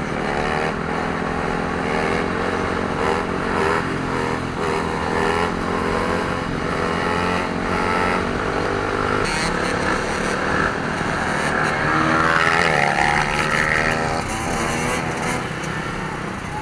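Several dirt bike engines revving at once, their pitch climbing and dropping, loudest about twelve to fourteen seconds in.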